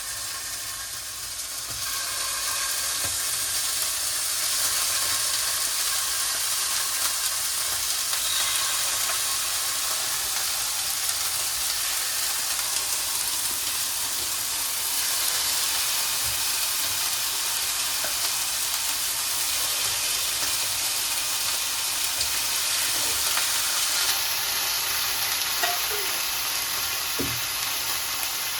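Chicken wings frying skin-side down in hot olive oil in a pan: a steady sizzle that gets louder about two seconds in.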